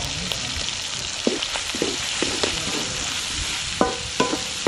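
Snails and sliced shallots sizzling in hot oil in a wok while a wooden spatula stirs and scrapes them, with scattered clicks. Near the end the spatula knocks twice against the wok, which rings briefly.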